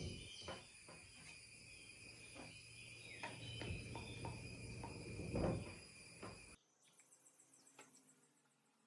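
Faint, steady, high-pitched insect chirring with a few light clicks and a soft thud about five and a half seconds in. It all cuts off abruptly about two-thirds of the way through, leaving near silence.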